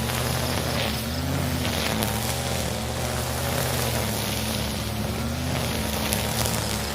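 Husqvarna 541 two-stroke brush cutter running at high throttle while cutting grass, its engine pitch wavering slightly up and down as it works.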